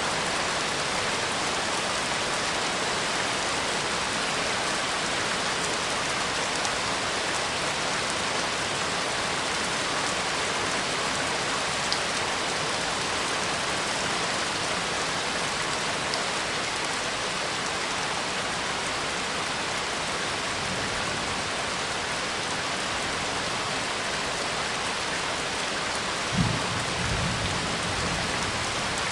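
Steady rain falling, an even hiss with a few sharper drop ticks. A short low thump comes near the end.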